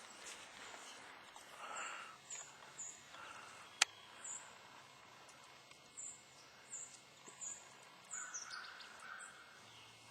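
Birds calling, with many short high-pitched chirps and a few harsher, lower calls. A single sharp click about four seconds in is the loudest sound.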